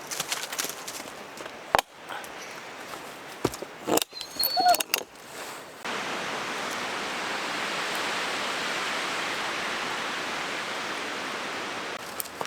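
A few sharp wooden knocks and clatter of a log or branches being handled. About six seconds in, a steady rushing noise sets in abruptly and becomes the loudest sound.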